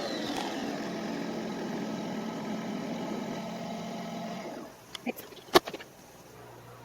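Nespresso Vertuo Pop+ capsule machine brewing a double espresso: a steady motor and pump hum that winds down and stops a little over halfway through, at the end of the brew cycle. A few sharp clicks follow, the loudest about five and a half seconds in.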